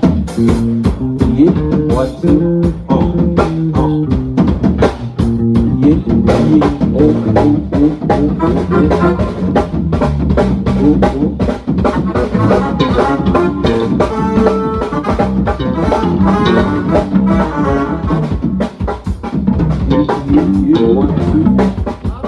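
Instrumental band music: a drum kit keeping a steady beat under bass and guitar playing changing notes.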